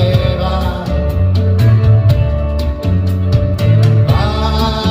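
Live band music: a singer holds out the end of a sung line at the start, then the band plays on without singing until near the end.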